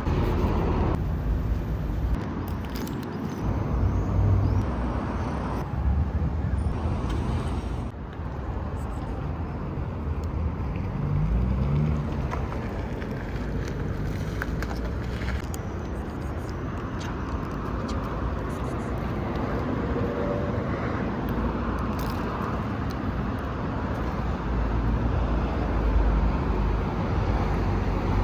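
Outdoor street ambience: a steady rumble of road traffic, with cars passing.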